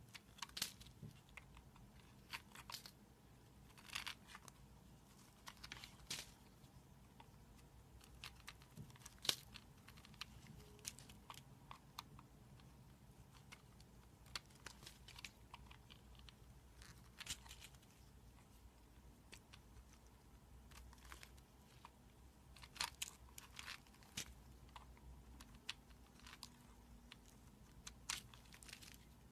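Slime being squeezed and stretched close to the microphone, giving irregular sharp crackles and pops, some in small clusters, over a faint low hum.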